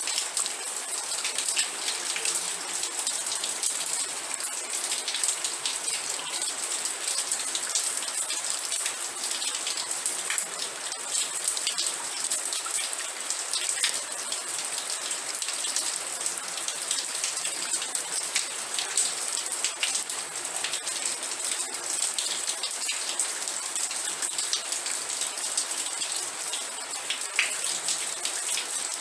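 Steady rain, with many close individual drops ticking and pattering on a surface over a constant hiss.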